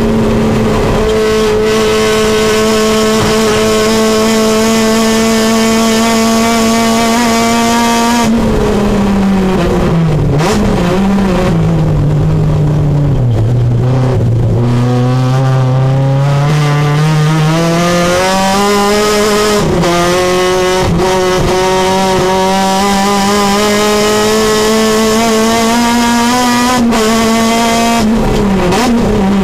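Supercharged 2.4-litre Honda K24 four-cylinder race engine heard from inside the Civic's cabin under hard driving. The revs hold high for about eight seconds, then fall through the downshifts for a corner to about half their pitch. The engine then pulls back up the rev range and holds high again, with a lift off the throttle near the end.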